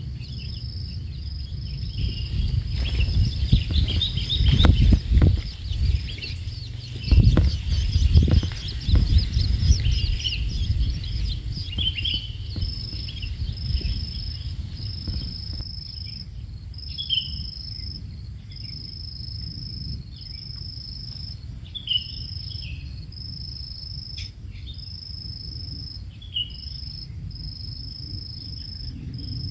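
A cricket chirps in regular high pulses, with short high chirps from young long-tailed shrikes now and then. A loud low rumble runs through roughly the first ten seconds.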